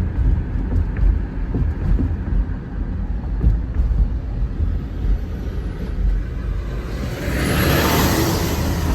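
Car driving, heard from inside the cabin: a steady low rumble of engine and road noise. About seven seconds in, a louder rushing noise swells for roughly two seconds.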